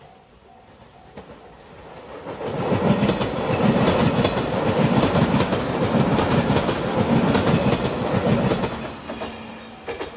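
Shiokaze limited express electric train passing at speed, its wheels clattering rhythmically over the rail joints. It builds over the first couple of seconds, runs loud through the middle and fades near the end.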